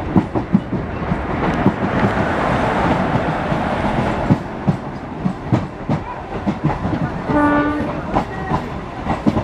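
A train running, its cars rattling and clanking with many sharp knocks over a steady rumble. About seven seconds in there is a short, steady horn blast.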